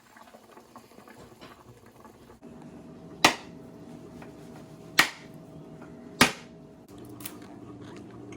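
Three loud, sharp knocks a little over a second apart, each ringing briefly, over a steady hum that starts a couple of seconds in.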